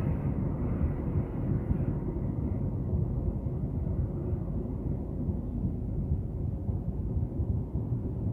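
Passenger train coaches passing close by at speed: a steady low rumble of wheels on rails.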